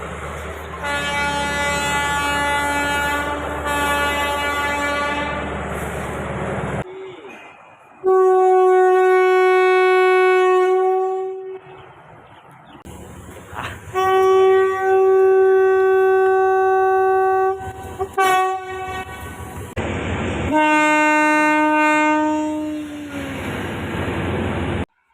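Thai railway locomotive air horns sounding four long blasts, each from a separate clip, plus a short toot between the third and fourth; the first and last are lower-pitched, with train running rumble beneath them, and the last drops in pitch as it ends.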